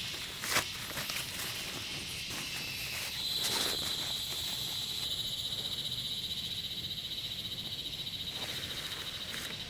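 Steady high-pitched trilling chorus of small forest creatures, pulsing rapidly and growing stronger about a third of the way in, with a couple of short knocks near the start.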